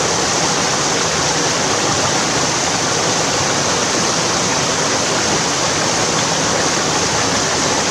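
Mountain stream rushing through a rocky gorge: a steady, loud rush of water that does not change.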